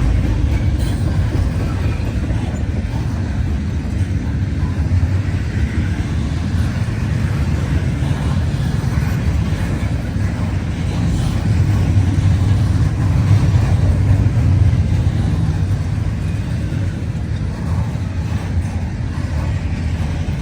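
Freight train rolling past with a steady low rumble that does not let up.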